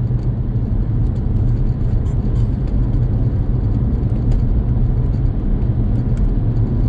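Steady low rumble of road and engine noise inside a VW Polo's cabin while it drives at a steady speed.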